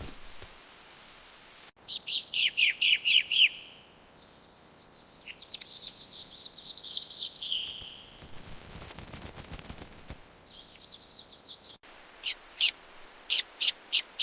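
Songbird song in several bursts: a quick series of falling notes, then a longer high trill that drops in pitch at its end, then after a pause a fast short trill, and near the end a string of separate sharp chirps. The sound cuts off abruptly twice, about two seconds in and near the end.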